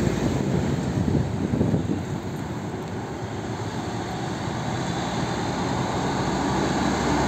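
Heavy highway traffic: diesel lorries, among them a cement mixer truck, driving past with a steady drone of engines and tyres that eases a little midway and builds again toward the end.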